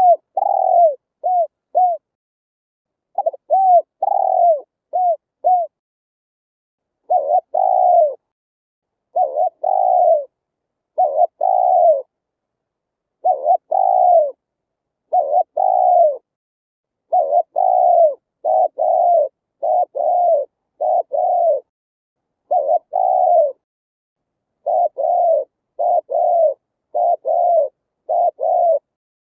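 Spotted dove cooing in repeated low, hollow phrases, with short quick notes at first and then a steady run of paired coos about once a second. The background between phrases is silent, as in a clean lure-speaker recording.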